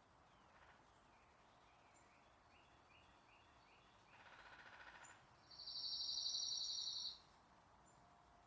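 Songbird singing a fast, even, high trill for about a second and a half, the loudest sound, after a few short chirps and a buzzier call, over a faint steady outdoor hiss.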